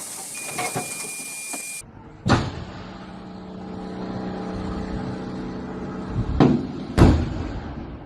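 A motor vehicle's engine running steadily, with a sudden loud knock about two seconds in and two more heavy thumps near the end. A steady high beep sounds in the first second or two.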